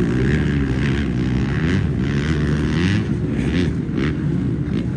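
Motocross bike engines running, a steady drone whose pitch wavers up and down with the throttle.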